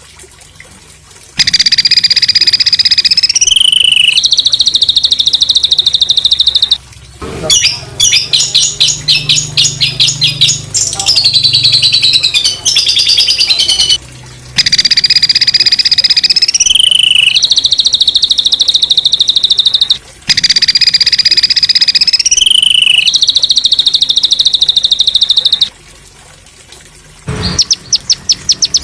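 A recorded songbird singing harsh, buzzy 'tembakan kasar' phrases: a high rattling trill that drops in pitch and then runs on as a fast, grating buzz. The same phrase comes three times, with a run of rapid sharp chips between and short pauses.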